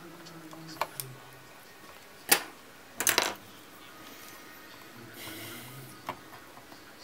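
Clicks and clatter of small hard parts and tools being handled on a workbench during laptop repair: a few light clicks, one sharp knock about two seconds in, and a quick rattle of clicks a second later.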